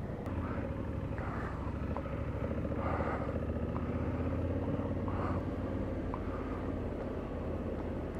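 Motorcycle engine running as the bike rides off, a low, even drone that swells slightly a few seconds in.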